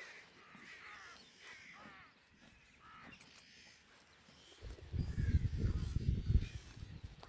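A string of short, falling bird calls in the first few seconds, then a loud low rumble lasting about two seconds near the end.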